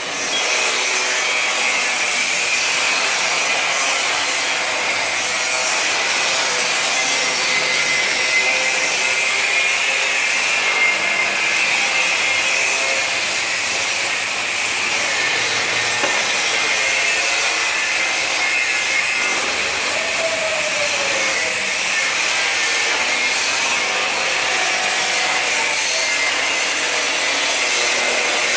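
Automatic pellet packing machine running steadily, a continuous high-pitched mechanical noise with no clear beat.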